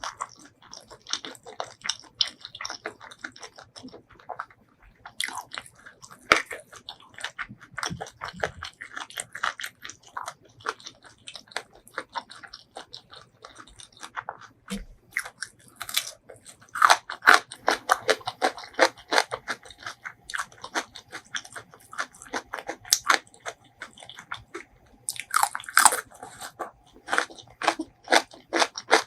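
Close-miked eating: a steady run of crunching bites and chewing, loudest partway through and again near the end.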